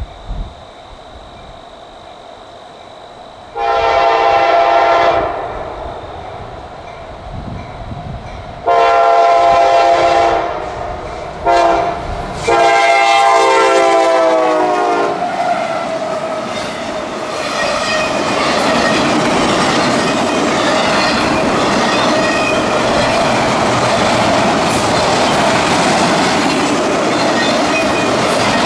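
CSX freight locomotive's air horn sounding the grade-crossing signal, two long, one short, one long, the last blast dropping in pitch as the locomotive passes. Then the steady rumble and clickety-clack of autorack cars rolling past.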